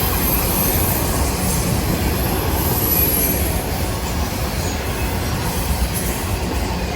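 Freight train of autorack cars rolling past: a steady rumble of steel wheels on rail, with a thin high wheel squeal in the middle.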